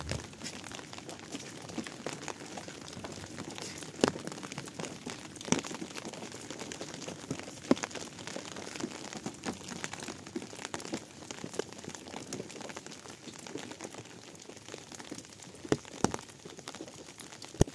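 Steady patter of rain, with scattered sharp taps of single drops and a few louder clicks.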